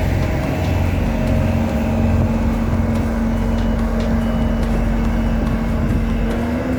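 Heavy diesel engines of asphalt-paving machinery and trucks running steadily, with a continuous low engine drone.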